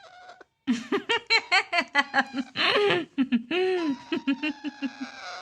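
Laughter: a quick run of short 'ha-ha' notes, about four or five a second, with a longer held note midway and a slowly falling note near the end.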